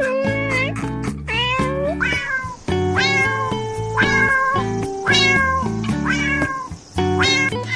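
Cat meowing over and over, a run of short bending meows about one or two a second, over background music with sustained notes.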